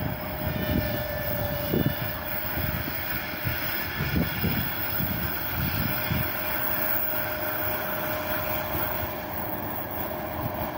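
Distant 3ES5K 'Yermak' electric locomotive hauling a freight train, approaching with a steady drone and one steady whine, under irregular low gusts of wind buffeting the microphone.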